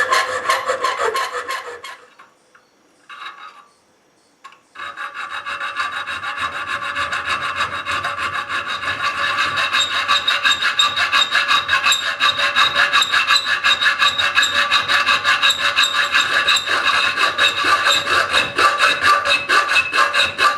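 Hand file rasping on a wrought-iron latch thumb lever, in fast back-and-forth strokes with a metallic ring. It pauses briefly about two seconds in, then resumes about five seconds in and keeps an even rhythm.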